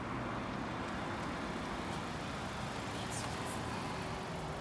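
Steady rumble of road traffic and vehicle noise, with a couple of faint high-pitched chirps about three seconds in.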